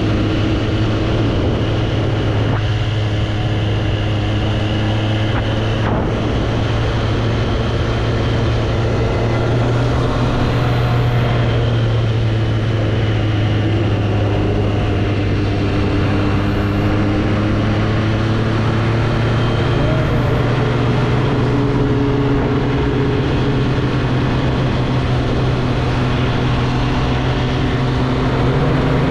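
2024 Triumph Street Triple's inline three-cylinder engine running steadily under way, its pitch holding nearly level with only small rises and dips.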